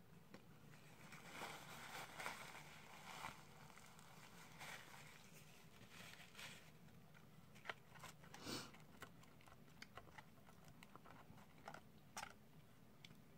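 Faint close-up chewing of fast food, mouth closed, with scattered soft clicks.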